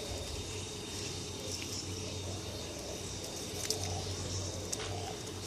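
Quiet background with a steady low hum and a couple of faint clicks.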